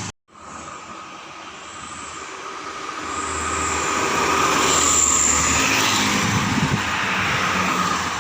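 A truck passing on the road: its engine and tyre noise rise steadily over about four seconds, then stay loud toward the end.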